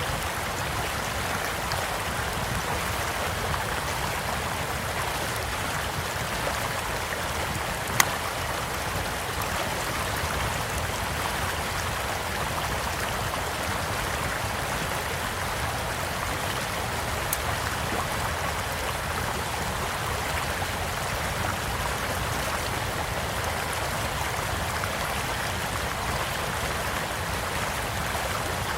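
A stream flowing steadily beside a campfire, with scattered soft crackles from the fire; one sharp pop from the fire about eight seconds in stands out as the loudest sound, and a smaller one follows about nine seconds later.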